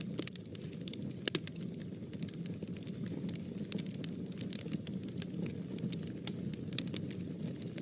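Fire burning in a fireplace: a steady low rumble of the flames with irregular sharp crackles and pops, one louder pop about a second and a half in.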